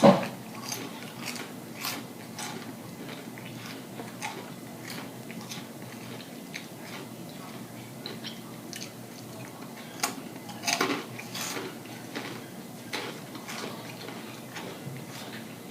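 Close-up chewing of crunchy rolled tortilla chips (Takis): irregular crisp crunches and mouth sounds, with a louder run of crunches about ten seconds in.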